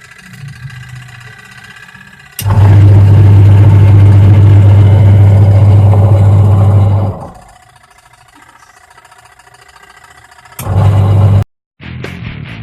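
Washing machine motor and gearbox running with a loud, harsh hum and grinding, a long stretch of about five seconds and then a short burst under a second. It is the rough noise of the faulty machine, whose repair replaces the gearbox and motor.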